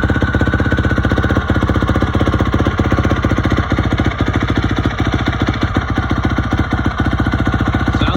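Honda CRF450R's single-cylinder four-stroke engine running steadily with a rapid, even firing beat, having just caught on a cold start.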